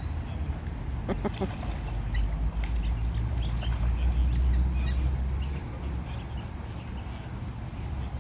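Pond waterfowl calling in short, scattered notes as they gather at food thrown into the water, with a quick cluster of calls about a second in. A steady low rumble underlies the calls and eases off about two-thirds of the way through.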